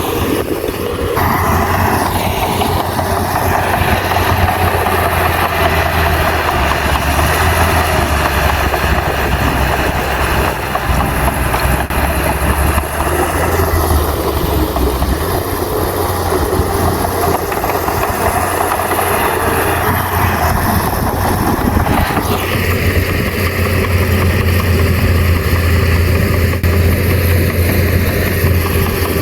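Heavy diesel engine of earthmoving machinery running steadily under load with a strong low hum; its sound changes about a second in and again around 22 seconds.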